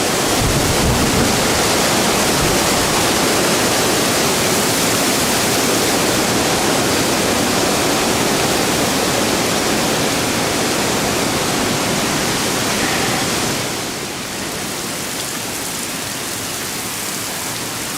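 Strong thunderstorm wind gust, judged about 50 knots, blowing through the trees as a loud, dense, steady rush that eases a little about 14 seconds in.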